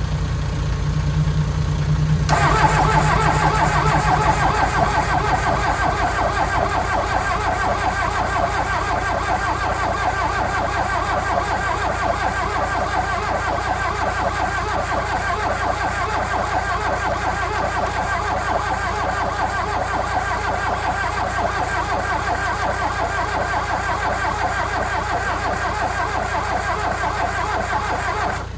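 Starter motor cranking a VW Rabbit pickup's 1.6 diesel, powered through jumper cables: a steady mechanical churn that begins about two seconds in and holds for more than twenty seconds without the engine catching, then stops abruptly. A low engine rumble runs underneath throughout.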